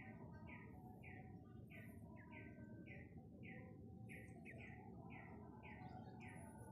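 A bird calling faintly, repeating one short chirp about three to four times a second.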